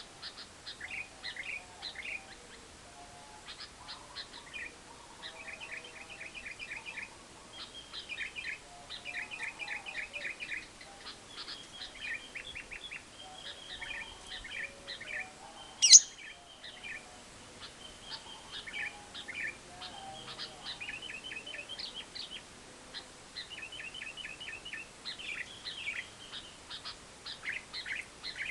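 Lovebirds chattering in long rapid trills ('ngekek panjang'): repeated runs of fast, high chirping notes, each run about a second long, overlapping from more than one bird. About halfway through, one short, much louder shrill note.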